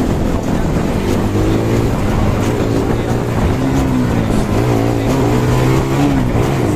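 Bajaj Pulsar NS200's single-cylinder engine and exhaust under way on the road, the revs rising and falling several times, over steady wind and road noise.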